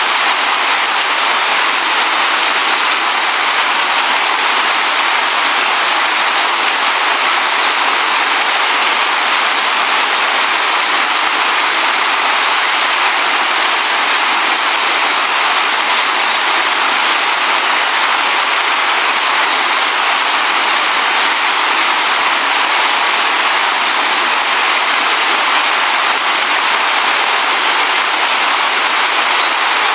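River water rushing steadily over rocks, close by.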